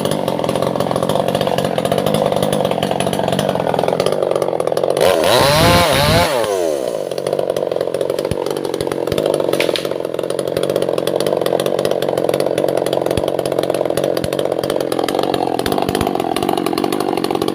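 Two-stroke chainsaw running at high speed, cutting albasia wood, its engine pitch dipping slightly as it bites. About five seconds in a louder rush of noise swells and fades over a second or two.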